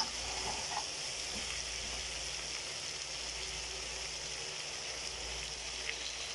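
Chicken pieces, potatoes and carrots sizzling steadily as they fry in curry powder in a pan, with a single short knock at the very start.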